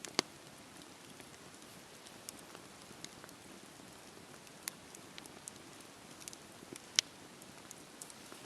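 Wood fire crackling: a steady low hiss with scattered sharp pops, two of them louder, just after the start and near the end.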